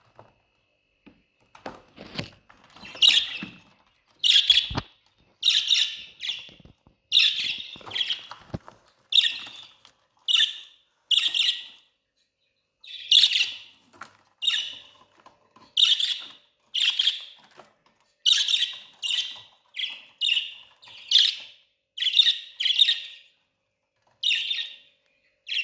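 Budgerigars chirping: a long run of short, sharp chirps, about one or two a second, some in quick pairs, with a few brief pauses.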